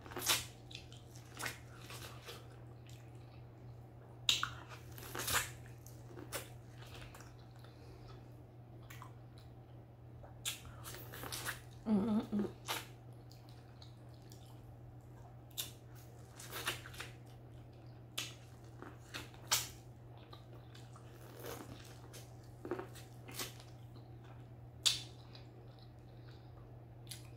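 Close-miked biting and chewing of corn on the cob: irregular crisp crunches and wet mouth sounds, over a steady low hum.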